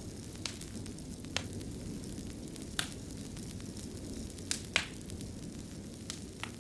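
Wood fire burning in a fireplace: a steady low rumble with sharp crackling pops every second or so, two loud ones close together a little before the five-second mark.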